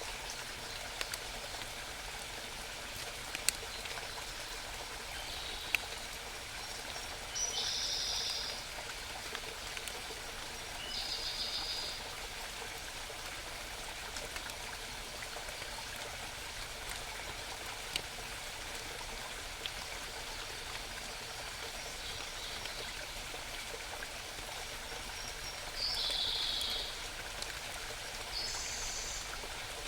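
A small mountain stream trickling and babbling steadily, with a songbird breaking in with short, rapid high trills about five times.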